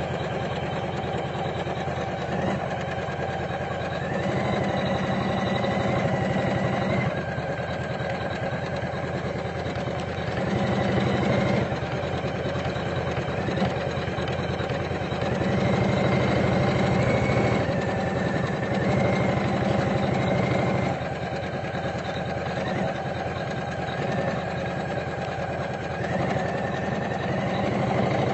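Computerized embroidery machine stitching with a rapid, even needle rhythm and a motor whine, its pitch and loudness shifting up and down every few seconds.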